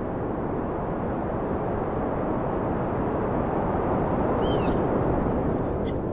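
Outdoor ambience: a steady low rushing noise, with a single short bird call about four and a half seconds in and further bird calls starting near the end.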